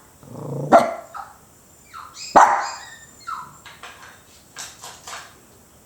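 Chihuahua barking in answer to "how many?", counting on cue: two loud, sharp barks, about a second and two and a half seconds in, with several quieter yips between and after.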